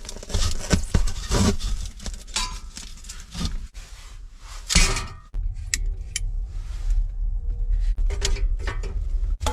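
Metal clinking, clattering and scraping as a homemade heating stove is handled and set up. About five seconds in, a steady low rumble starts suddenly, with a few more clicks over it.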